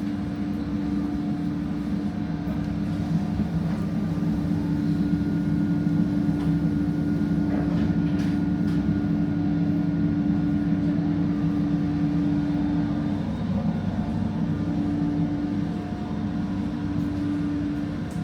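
ÖBB Cityjet electric regional train running along the line: a steady hum from the drive over a dense low rumble of the wheels on the rails. The hum drops out briefly about two-thirds of the way through.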